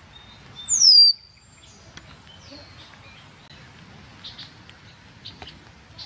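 Red-winged blackbird call: one loud, clear whistle about a second in that slides steeply down and then holds briefly, followed by a softer, shorter falling note and a few faint chips.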